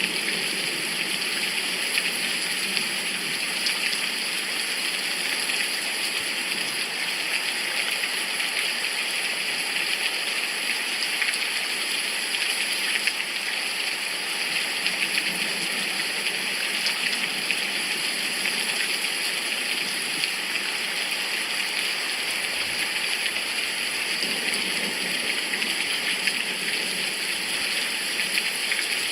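Steady heavy rain, a downpour hissing evenly without a break.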